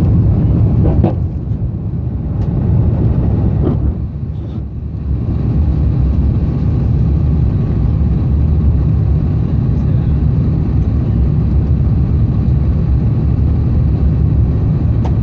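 Steady low roar of an Airbus A350 heard from inside the passenger cabin: its Rolls-Royce Trent XWB engines and the airflow over the fuselage during the climb-out after take-off. It eases a little a couple of seconds in, then holds steady.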